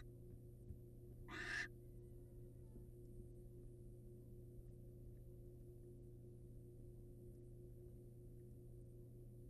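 A barn owl gives one short, hoarse hissing screech about a second and a half in, over a steady low hum.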